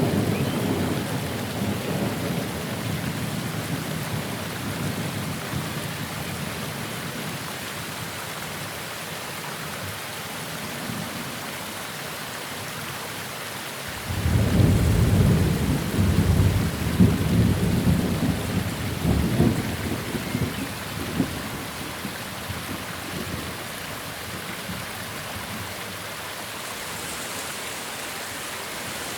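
Steady heavy rain with thunder: a rumble dying away at the start, then about halfway through a new roll of thunder breaks in suddenly and rumbles for several seconds before fading back under the rain.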